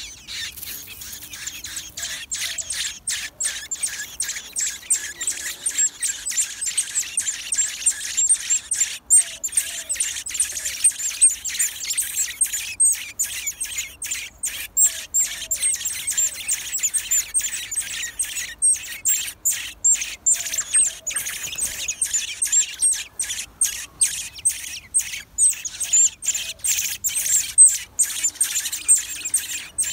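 Birds chirping: a dense, continuous stream of rapid, high-pitched chirps.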